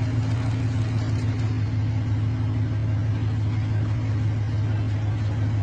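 Steady low drone of a vehicle running, engine and road noise with no change in pitch or level.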